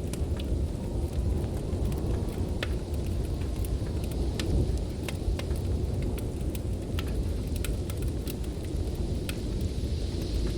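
Snowstorm wind making a steady low rumble, with a wood fire crackling over it in scattered sharp pops.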